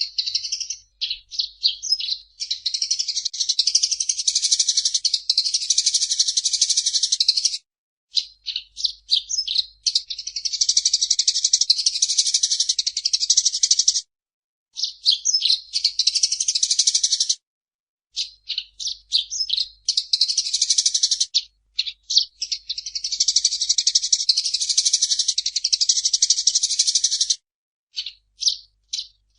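Eurasian tree sparrow chirping and chattering: quick runs of separate high chirps run into dense, continuous chatter lasting several seconds at a time, broken by brief silences.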